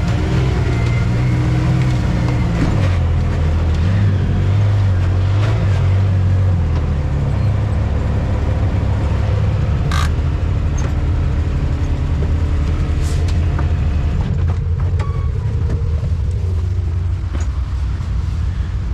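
Off-road vehicle engine running while driving a trail, its note stepping down and up a few times as it slows and speeds up, with a couple of sharp knocks about halfway through.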